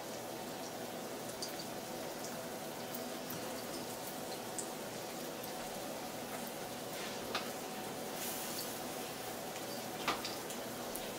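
Breaded chicken breast frying in olive oil in a frying pan: a steady sizzle with scattered small crackles and a few sharper pops, the loudest about ten seconds in.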